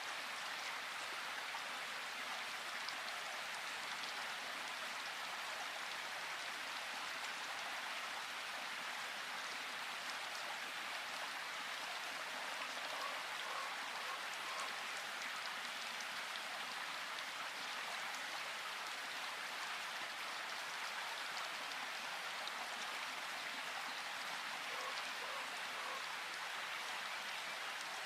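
Steady rain falling in a forest, an even hiss that doesn't let up.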